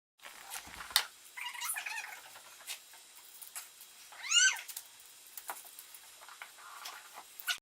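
A pet's high-pitched cry: a short call early on, then one louder cry that rises and falls about four seconds in, with scattered small clicks and a sharp tap about a second in.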